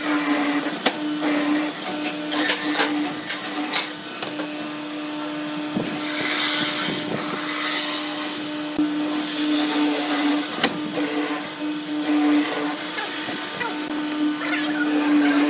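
Electric power tool motor running steadily, with scattered clicks and knocks of wood being worked.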